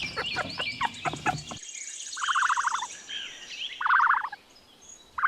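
A puppy whimpering and yelping in short high-pitched whines. After an abrupt cut about a second and a half in, a different animal gives short rapid trilled calls, three times about a second and a half apart.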